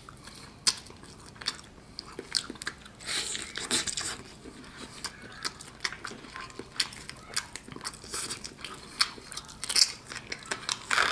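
Chewing and biting into a roasted jerk chicken drumstick: a string of irregular short mouth clicks, with a denser, louder stretch about three to four seconds in.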